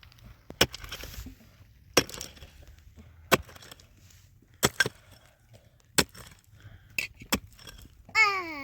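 A series of sharp strikes, about one every second and a half, with two close together near the end. Just before the end comes a short call that falls in pitch.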